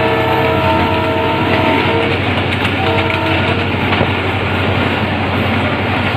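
Diesel locomotive horn sounding a chord of several steady notes over the constant rumble and clatter of a train running at speed on the rails. The horn is held for about two seconds from the start and sounds again briefly around three seconds in.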